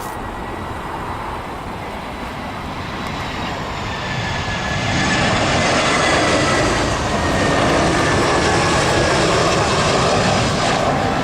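Jet airliner on final approach passing low overhead: the engine noise builds over a few seconds and stays loud, with a high whine that slides slowly lower as it goes by.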